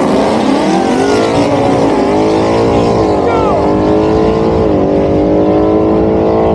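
Car engine under full throttle on a drag-strip pass, its pitch climbing in each gear and dropping back at each upshift: about two, three and almost five seconds in, and again at the very end.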